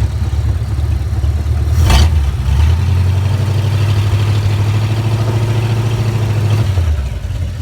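1951 Mercury's flathead V8 running at a slow idle shortly after a cold start. A sharp click comes about two seconds in, and the engine note swells a little from about three seconds to near the end before settling back. The owner points out an exhaust leak at the passenger-side donut gasket.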